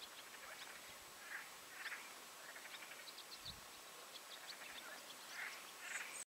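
Faint scattered bird calls over quiet outdoor background: a few rough, quacking-like calls and short clusters of high chirps, cutting off abruptly just before the end.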